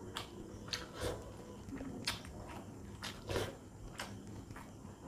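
Close-up wet chewing and lip smacks of a person eating watery panta bhat (water-soaked rice) by hand, with irregular sharp wet clicks about once or twice a second.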